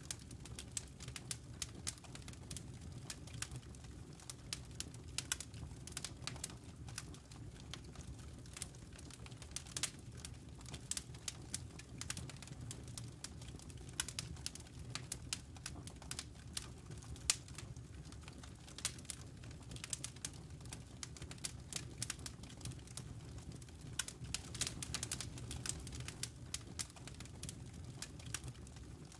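Campfire crackling: burning wood and embers snapping and popping in frequent, irregular sharp cracks over a low steady rumble.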